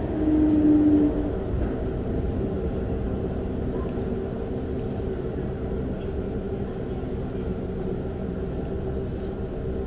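Running noise inside a Keihan 8000 series electric train car. In the first second a drive-motor tone falls slightly in pitch and then stops, leaving the steady rumble of the wheels on the track.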